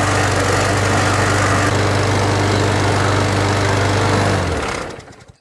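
Walk-behind lawnmower's 140cc PowerMore engine running at a steady speed, then winding down and stopping about four and a half seconds in.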